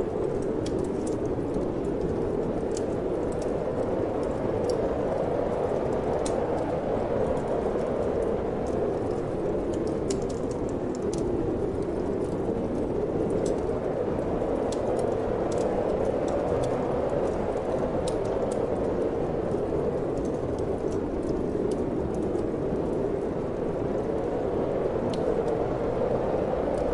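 Steady wind blowing, with a wood fire in a fireplace crackling in scattered small pops.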